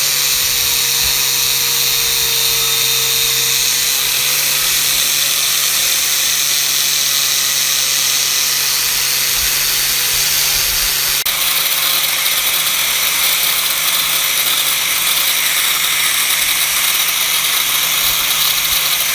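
An electric power tool running steadily under load: a constant motor hum under a loud, high grinding noise, with the note shifting slightly about eleven seconds in.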